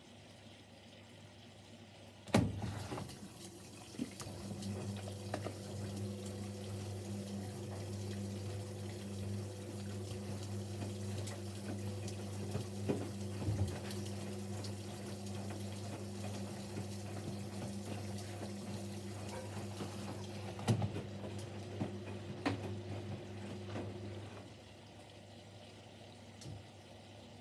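Siemens Siwamat Plus 574 washing machine taking in water for a rinse. About two seconds in there is a click, then water runs in with a steady hum and a few knocks, and the inflow shuts off abruptly near the end.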